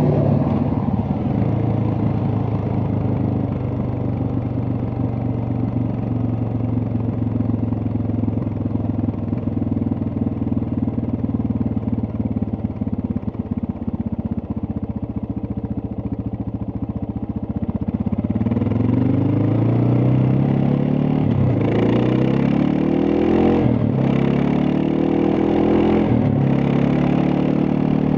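Suzuki DR650 single-cylinder engine running at steady revs. About two-thirds of the way in it revs up hard through the gears, its pitch rising and then dropping sharply at each of three upshifts.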